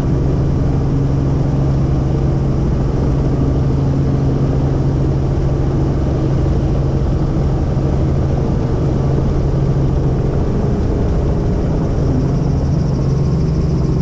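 Helicopter in flight heard from inside the cabin: the rotor and turbine make a loud, steady drone with a constant low hum.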